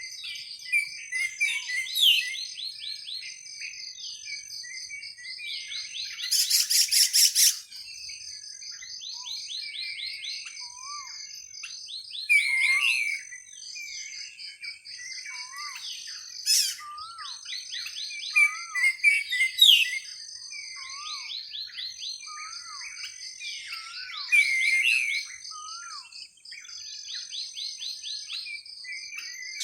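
Birds chirping and calling in short repeated notes and glides over a steady, pulsing insect chorus. A loud rapid rattling trill comes about six to seven seconds in.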